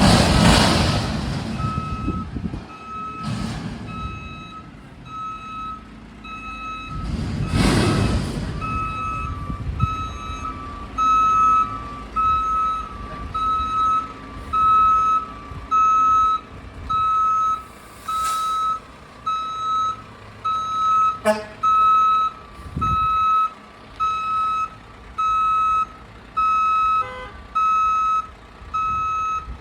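Heavy Mack refuse truck backing up, its reverse alarm beeping about once a second over the low running of the diesel engine. The beeps get louder after about ten seconds. Several loud rushes of noise break in during the first eight seconds.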